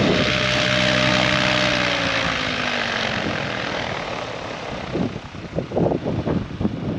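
Goosky RS7 electric RC helicopter's motor and rotor winding down: the whine and the rotor drone slide down in pitch and fade over the first few seconds.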